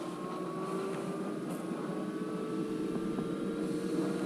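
Furnace draft inducer motor running with a steady whine that rises slowly in pitch as it speeds up. It is pulling draft through the flue, which had been blocked by birds and caused a pressure switch fault.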